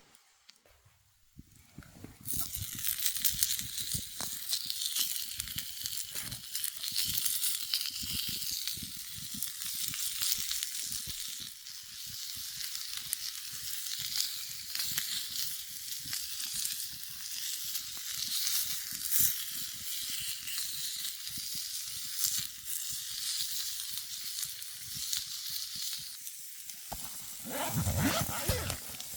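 Food frying and sizzling in a hot pan over a campfire, starting suddenly about two seconds in as it goes into the pan, a steady hiss dotted with small crackles and pops.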